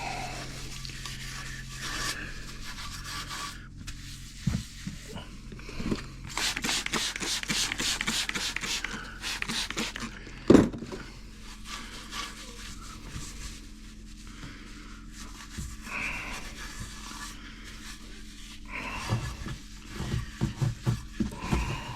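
Steel-wool soap pad scrubbing rust off an exhaust pipe in quick back-and-forth strokes, loudest for a few seconds in the middle, with one sharp knock about ten seconds in.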